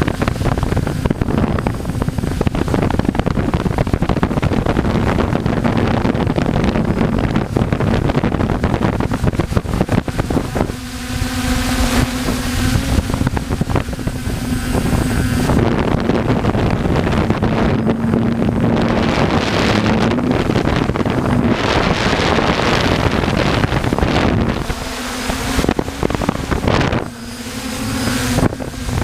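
Heavy wind buffeting the microphone, with a steady motor hum underneath that comes through more clearly when the wind eases.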